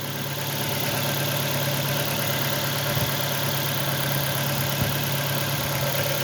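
2006 Ford Focus four-cylinder petrol engine idling steadily, running after a broken coil-pack wire that caused a misfire was repaired. Two faint thumps come about three and five seconds in.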